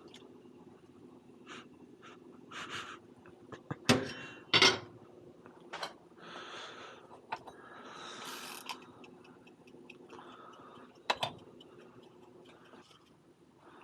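Kitchen cooking sounds: a few sharp knocks and clatters of pans and utensils, with short hissing stretches, over a steady low hum.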